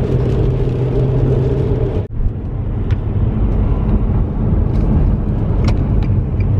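Steady low drone of a car in motion heard from inside the cabin: engine and tyre road noise at driving speed. There is a brief dip about two seconds in.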